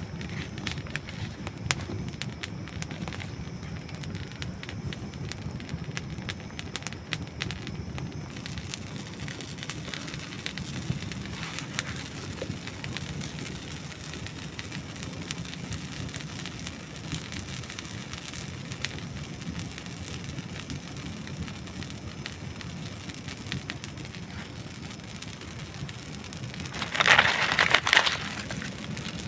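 Campfire of dry wood burning, with a steady bed of small crackles and sharp pops scattered throughout. Near the end a louder burst of crackling noise lasts about a second and a half.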